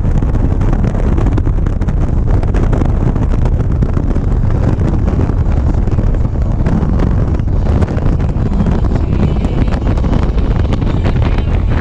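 Wind buffeting the microphone of a camera on a moving motorcycle, a steady loud rush over the running motorcycle at road speed.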